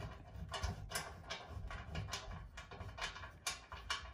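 Irregular light clicks and taps, a few a second, from small metal parts being handled: the loosened hex screws of the washer's lower front panel being taken out by hand.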